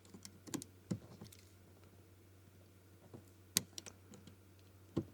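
Scattered sharp clicks and light scrapes of a knife trimming and cleaning the cut edge of a plastic panel, the loudest click about three and a half seconds in.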